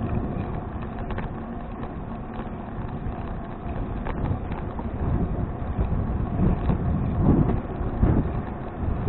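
Wind buffeting an action camera's microphone on a moving bicycle, a low rumbling rush that grows louder through the second half.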